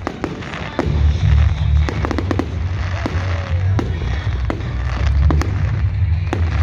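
Fireworks display: many sharp bangs and crackles in quick succession, over a heavy low rumble.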